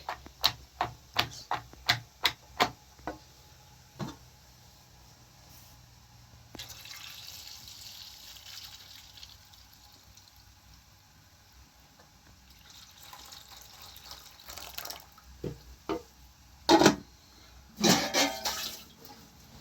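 A quick run of sharp knocks, about three a second, then liquid pouring and splashing into a container for several seconds, with a few louder knocks and clatters near the end.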